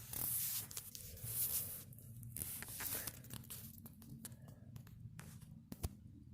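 Gusts of high wind hissing and rustling in fits over the first four seconds, then easing, with scattered light clicks and one sharper knock near the end.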